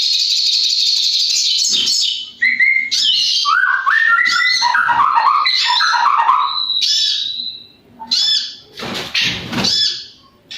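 Sogon bird singing its crackling 'konslet' song: a harsh buzzing crackle for about the first two seconds, then varied whistled notes and a fast chattering run, with short phrases again after a brief pause near the end.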